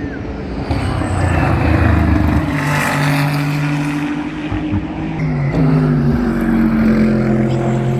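GT race cars' engines passing at speed, several at once, the engine notes stepping and gliding in pitch with gear changes. It grows louder about a second in and again near the middle.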